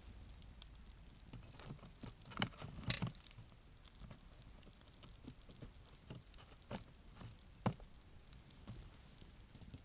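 Wood fire crackling, with scattered sharp snaps and pops. The loudest cluster of pops comes a little under a third of the way in, and a single sharp snap follows about three-quarters of the way through.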